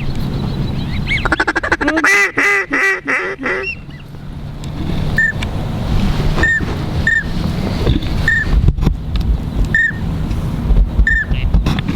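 Mallard quacking in a fast run of about a dozen calls for a couple of seconds, then short whistles repeated about once a second, over steady low wind rumble.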